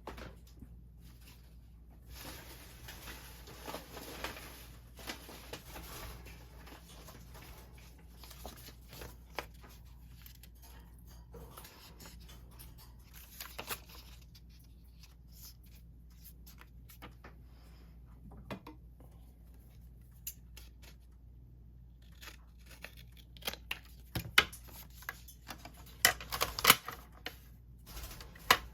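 Paper being handled on a work table: stretches of rustling or tearing paper, with scattered taps and clicks that are loudest near the end.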